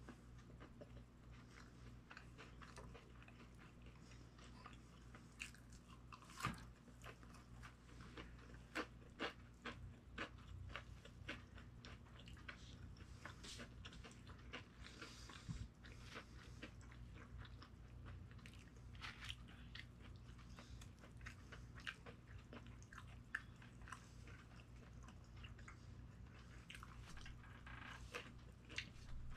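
Faint close-up biting and chewing of crispy flour-coated fried carrot sticks: scattered crunches and small mouth clicks, with a few louder crunches a few seconds in.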